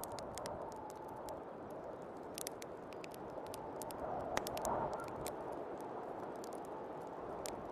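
Wood fire crackling with many small sharp pops, the loudest about four seconds in, over steady snowstorm wind that swells briefly near the middle.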